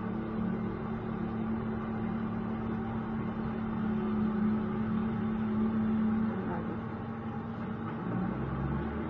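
A machine running with a steady hum, its tone holding until about two-thirds of the way through and then dropping lower near the end.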